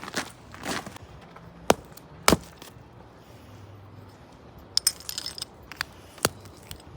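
Crusted ice and snow cracking and crunching underfoot: sharp, irregular cracks, the loudest two close together in the first half and a quick cluster of smaller cracks later.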